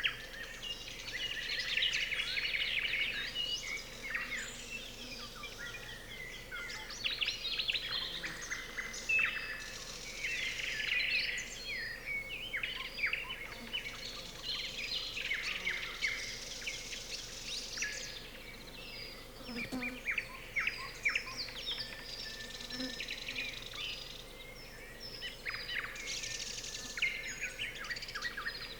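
Nightingales singing among other songbirds: rapid, varied trills, clicks and whistled phrases overlapping without pause.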